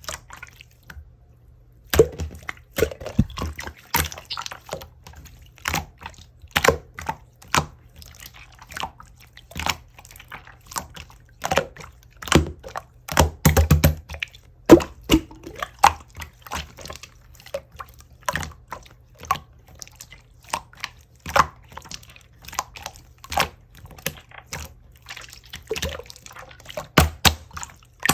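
Clear slime being squeezed and pressed by hand, giving irregular wet clicks and pops, several a second, with a short pause near the start.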